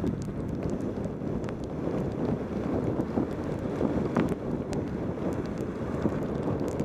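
Wind buffeting a helmet camera's microphone on a fast bicycle descent in rain: a steady low rush with scattered small ticks.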